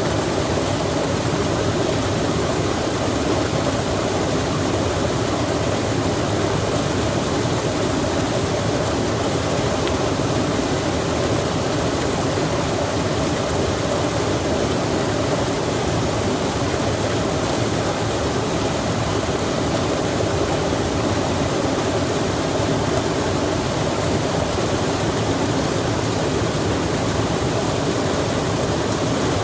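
Rushing water, a stream or small waterfall, making a steady, unbroken wash of noise.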